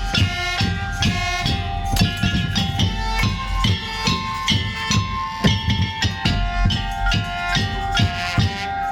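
Madurese traditional percussion ensemble playing: drums beat a quick, steady rhythm under a melody of held pitched tones.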